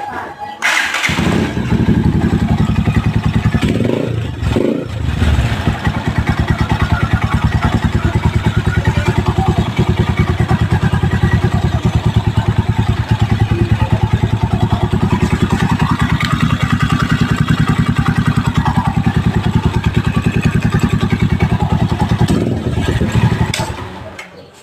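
Motorcycle engine breathing through a newly fitted thin stainless 'chicken pipe' aftermarket muffler: it starts about a second in, wavers briefly, then idles steadily with rapid, even exhaust pulses and dies away near the end.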